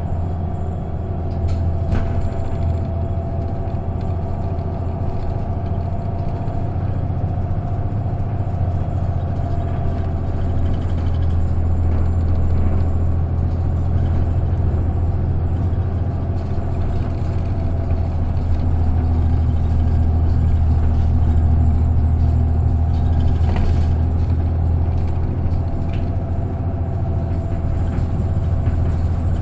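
Isuzu KK-LR233J1 non-step bus's diesel engine running under way, heard from inside the cabin as a steady low drone that swells slightly about two-thirds of the way through, with a few light clicks and rattles.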